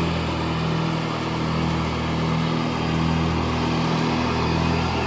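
Riding lawn mower's engine running at a steady pitch as it drives, with the cutting deck switched on.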